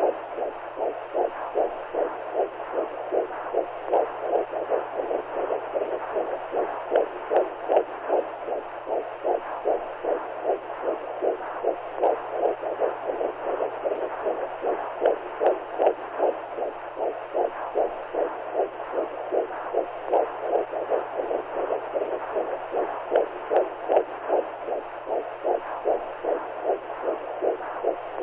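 Womb sound for soothing a newborn: a steady whooshing noise pulsed by a regular heartbeat-like beat, with a faint low hum underneath.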